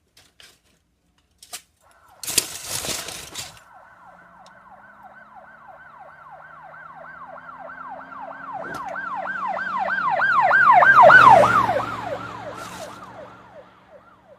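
Emergency vehicle siren in a rapid yelp, rising and falling several times a second, approaching, passing at its loudest and fading away as the vehicle drives past, with the vehicle's engine underneath. A short burst of noise comes about two seconds in, before the siren builds.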